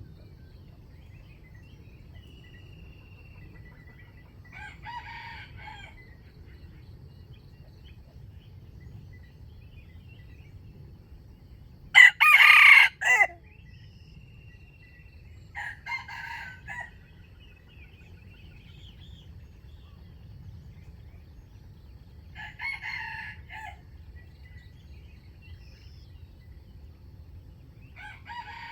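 Wild rooster crowing: one loud close crow about twelve seconds in, and four fainter, shorter crows spaced through the rest. A few faint small-bird chirps sit over a steady low background noise.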